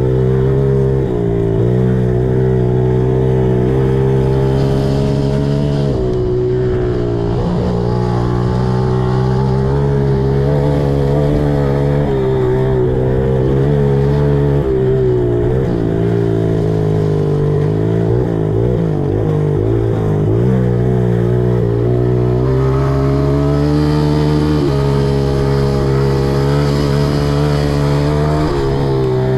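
Four-stroke pit bike engine running under way, heard from the rider's position. It holds steady revs for long stretches and the pitch dips and climbs again several times as the throttle is closed and reopened.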